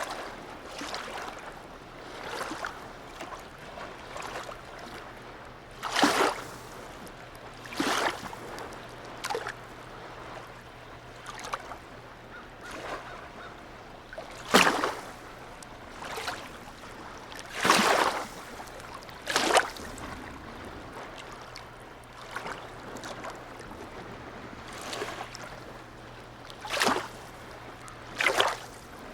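Harbour water lapping and splashing in short, irregular slaps every second or few, the strongest spaced a few seconds apart, over a constant wash of water. A faint steady low hum sits underneath through most of it.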